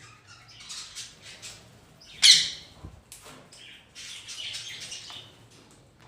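Caged budgies and a parrot chirping and chattering, with one loud squawk about two seconds in.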